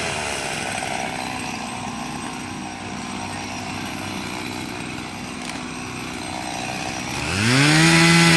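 Chainsaw engine coming down off high revs, idling for several seconds, then revved sharply back up to full throttle about seven seconds in.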